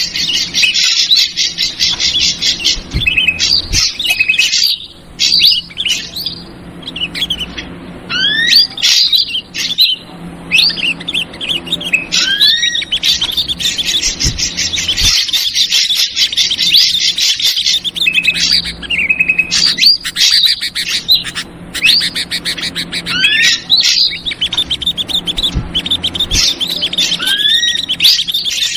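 Bird-lure recording of ashy drongo calls mixed with the agitated, rapid chattering of yellow-vented bulbuls, with short rising whistled notes between bouts of dense chatter; the sequence repeats as a loop.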